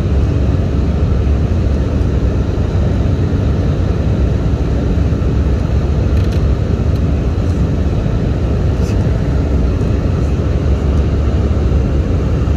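Steady low rumble of an Airbus A320's engines and rushing air, heard inside the passenger cabin in flight.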